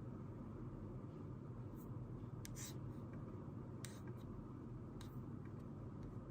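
A pen writing on paper: a few short, scattered scratches and ticks over a steady low room hum.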